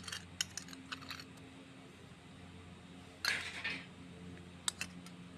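Spoons and small dishes clinking lightly during a meal, with a short scrape about three seconds in, over a steady low hum.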